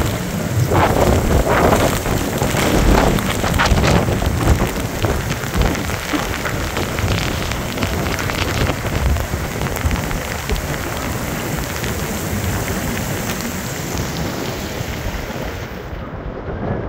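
Heavy rain pouring down: a loud, dense hiss, stronger and more uneven in the first few seconds, then steadier.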